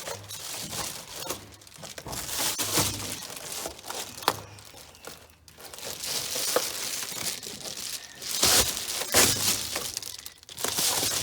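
Adhesive-backed insulation sheet being pushed and repositioned, crinkling and rustling with irregular scrapes, loudest in two bursts near the end.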